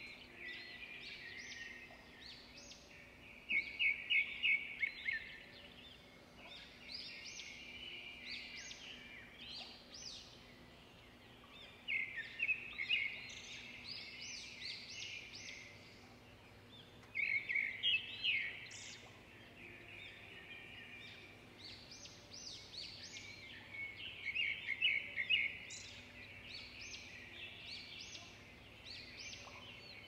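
Songbirds chirping and trilling in repeated bouts of rapid high notes over a faint steady background noise. The bouts are loudest about four seconds in, around the middle and again in the later part.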